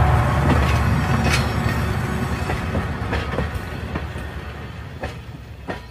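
A train running on the rails: a low rumble with irregular wheel clacks over rail joints, fading steadily as it moves away.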